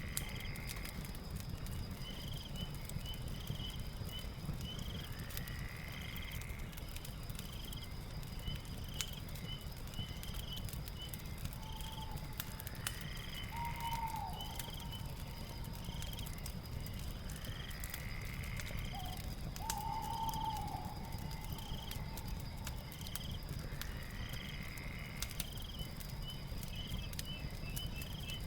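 Night ambience over a crackling fire: sharp crackles over a low rumble. A short high chirp repeats about once a second, a higher call rises and falls roughly every six seconds, and a lower drawn-out call comes a few times.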